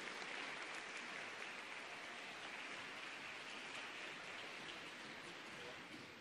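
Arena crowd applause, a soft patter of many hands dying away gradually.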